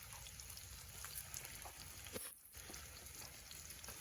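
Saltfish fritters frying in hot oil, a faint steady sizzle with scattered small pops, cutting out for a moment about halfway through.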